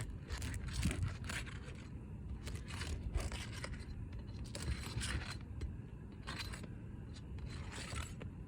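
Irregular scraping and crackling of asphalt roof shingles being worked by hand, as the shingle tabs are lifted off the roof, over a steady low rumble.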